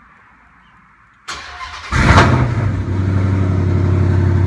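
1986 Porsche engine cold-started inside a garage: the starter cranks briefly about a second in, the engine catches with a loud burst of revs, then settles into a steady idle.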